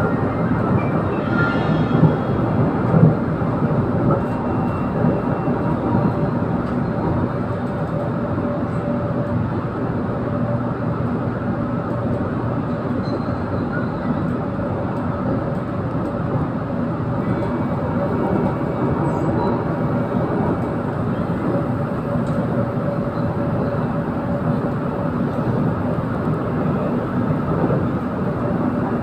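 KTM Komuter electric train running between stations, heard from inside the carriage: steady running noise, with two short louder knocks about two and three seconds in.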